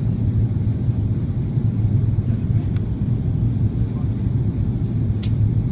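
Steady low rumble of engine and air noise inside the cabin of an Airbus A330 airliner in flight, with a faint click near the end.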